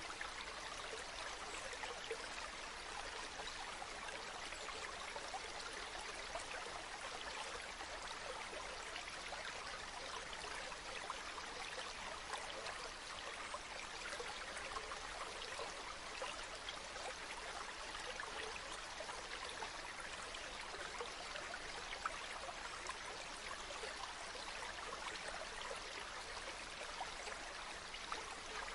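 Stream of water running steadily, an even, unbroken splashing flow.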